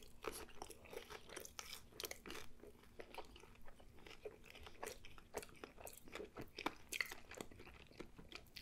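Close-miked chewing of a mouthful of a breakfast burger on a toasted everything bagel. Faint, wet mouth clicks and small crunches come in quick, irregular succession.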